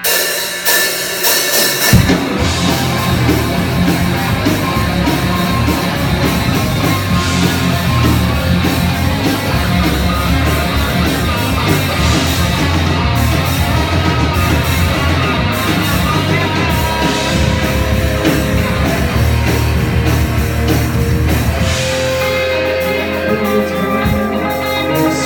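Live rock band starting a song with an instrumental intro of drums and guitar; the full low end of bass and kick drum comes in about two seconds in.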